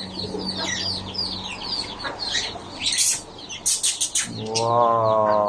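A flock of small birds chirping rapidly and continuously, with a few sharp clicks around the middle. A low, drawn-out voice comes in over the last second or so.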